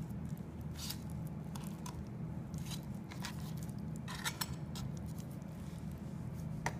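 Knife cutting and scraping along a raw chicken's breastbone as the breast meat is pulled away: scattered short clicks, scrapes and wet squishes over a steady low hum.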